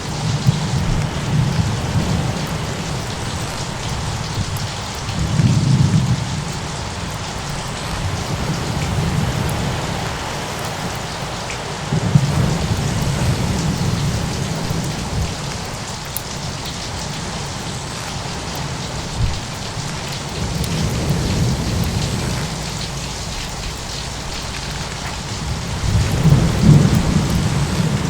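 Steady heavy rain with low rolls of thunder swelling up and fading several times.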